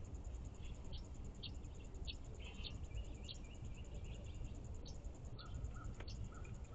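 Outdoor ambience of songbirds calling over a steady high insect trill: short high chirps repeat about twice a second, a brief chattering phrase comes around three seconds in, and a run of lower short notes starts near the end, all over a low background rumble.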